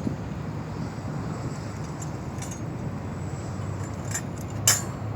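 JCB telehandler engine running steadily with a low hum, with a few sharp metallic clinks over it, the loudest near the end.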